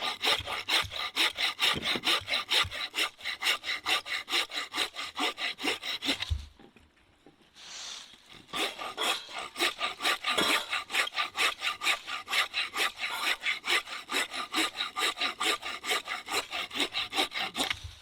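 Hand saw cutting firewood in quick, even strokes, about three a second, stopping for about two seconds midway and then carrying on.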